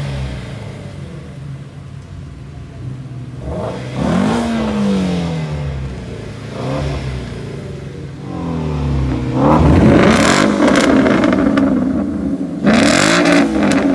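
Car engine idling and being revved again and again: short blips about 4, 6.5 and 8.5 seconds in, then two harder, louder revs, one about 9.5 seconds in and one near the end.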